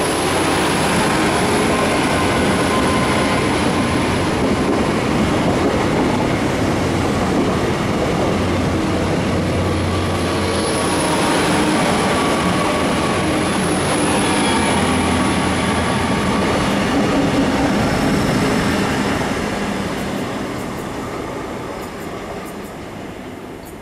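Great Western Railway Intercity Express Train passing close by the platform: a steady loud rumble of wheels on rail and running gear, with a faint high whine. It fades away over the last few seconds as the train moves off.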